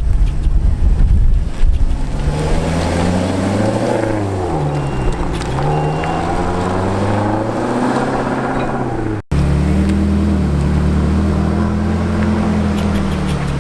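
Ferrari California's V8 engine running as the car moves off, its pitch rising and falling with the revs. About nine seconds in the sound cuts out for an instant, then a steadier engine note carries on.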